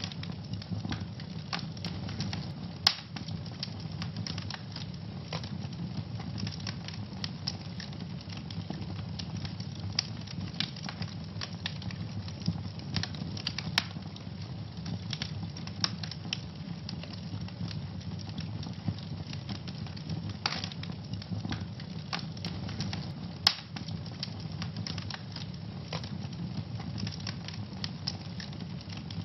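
Wood fire in a fireplace crackling steadily, with a low rumble under many small snaps. A few louder sharp pops stand out, about three seconds in, near the middle and about two-thirds of the way through.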